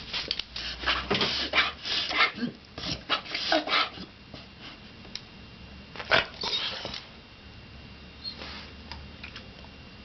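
Dog reverse sneezing: a quick run of rapid, noisy inhalations for the first four seconds, another burst about six seconds in, and a faint one later.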